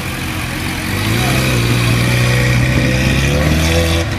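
Car engine running close by. It grows louder about a second in, its pitch rising a little, then holds steady.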